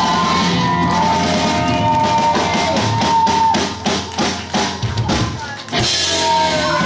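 Live pop-punk band playing loudly: electric guitars, bass and drum kit. In the second half the band hits a run of stop-start accents, then lands on a loud cymbal crash near the end.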